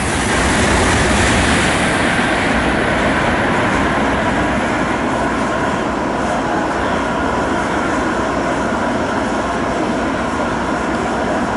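Tokaido Shinkansen train running at speed past a station platform: a loud, steady rush of air and rail noise. Its high hiss fades over the first few seconds, while the lower rumble carries on.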